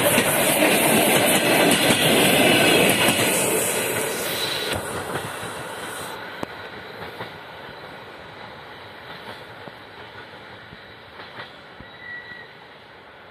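ED9E electric multiple unit passing close at speed, its wheels and carriages rushing by. The noise then fades steadily over about ten seconds as the train runs away down the line, with a few faint clicks of wheels over rail joints.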